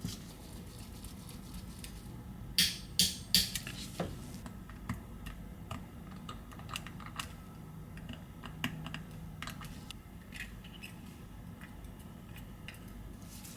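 Small tools and tiny metal parts clicking and tapping against an iPhone 11's frame as the SIM tray module and its metal connector plate are fitted. Three sharper clicks come close together between about two and a half and three and a half seconds in, with lighter scattered ticks after.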